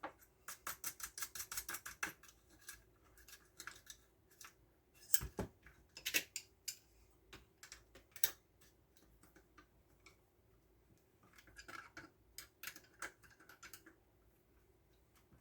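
Runs of light, quick clicks and taps from hands handling small wiring parts and tools: a rapid series at the start, a few sharper clicks in the middle, and another run near the end.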